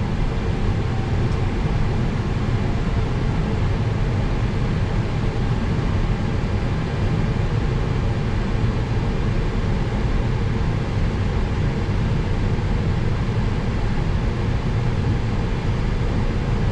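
Steady low drone of the A321's IAE V2500 turbofan engines running after a crossbleed start, heard inside the flight deck, with faint steady high-pitched tones over it.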